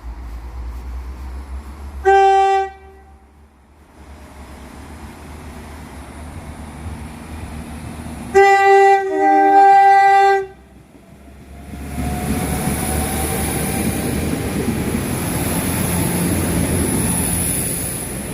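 NI Railways Class 4000 diesel multiple unit sounding its horn as it departs: a short toot, then about six seconds later a longer two-tone blast. Its engines then open up and the train pulls away, with a rising whine and mounting rumble.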